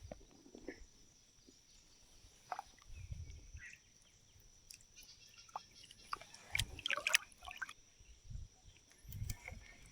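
Creek water splashing and dripping in scattered short splashes, with a few soft low thumps.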